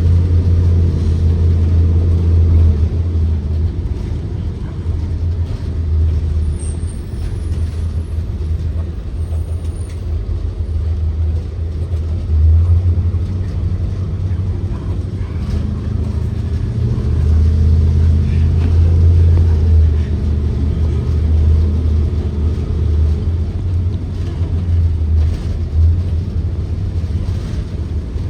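Blue Bird Vision school bus's Ford 7.3L gasoline V8 and driveline running under way, heard from inside the bus as a deep drone with road noise. It swells several times as the bus pulls.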